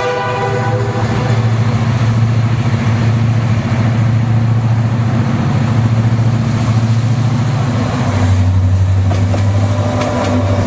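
Pan Am Railways EMD diesel freight locomotives passing close by with a heavy, steady engine rumble. The end of the horn blast fades out in the first second, and the engine note drops lower about eight seconds in.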